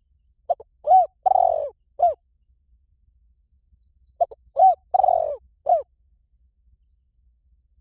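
Spotted dove cooing: two phrases of low coos about three and a half seconds apart, each of a few short notes and one longer drawn-out coo.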